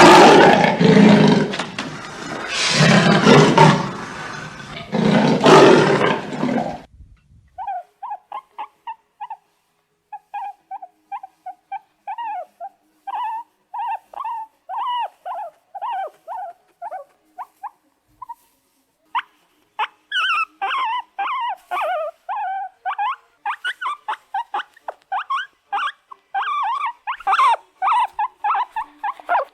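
Animal sounds: three loud, deep roars in the first seven seconds, then a long run of short, high-pitched yips and whimpers that come thicker and louder in the second half.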